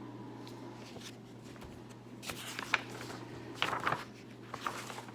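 Paper pages of a picture book rustling as they are handled and turned: a few short rustles with small clicks, over a low steady hum.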